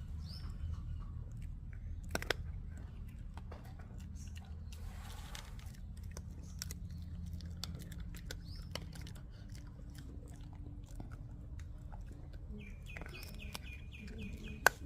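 A dog chewing and crunching food, with many small sharp clicks and crunches. Near the end comes a short run of quick chirps.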